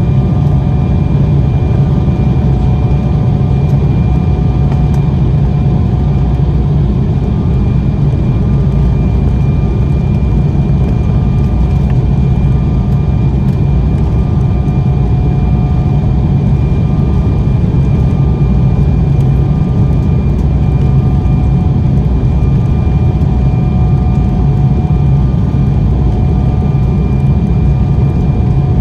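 Steady in-flight cabin noise of an Embraer ERJ-190 airliner: the deep, unbroken rumble of its General Electric CF34 turbofans and airflow, with a few faint steady whining tones above it.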